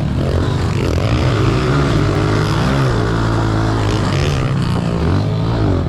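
Honda CRF125 pit bike's single-cylinder four-stroke engine being ridden hard, its pitch rising and falling as the throttle opens and closes.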